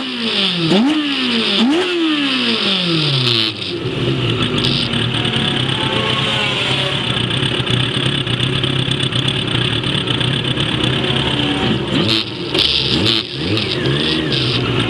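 Race vehicle engine heard onboard during a circuit lap. In the first few seconds the pitch drops in steps with short blips as it downshifts under braking. It then holds a steady note and rises again with acceleration near the end, over constant wind rush.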